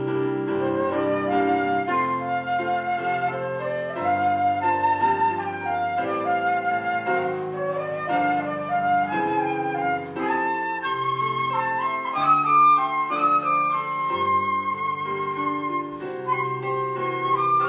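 Instrumental church music: a flute plays a slow melody with vibrato over held accompanying chords.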